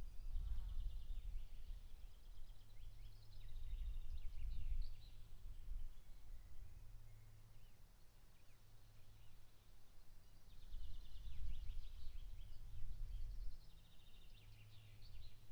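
A songbird singing two long phrases of quick repeated and trilled notes, one at the start and another about ten seconds in, over a low, uneven rumble.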